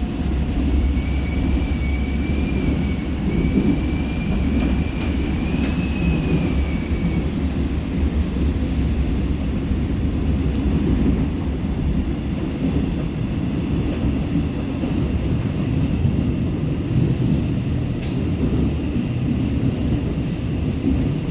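Seoul Subway Line 4 electric train running between stations, heard from on board: a steady low rumble of the wheels on the rails. A faint, wavering high whine sounds over it for several seconds near the start.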